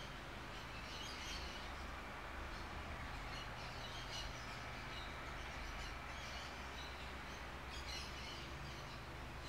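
Faint bird chirps now and then over a low, steady hum.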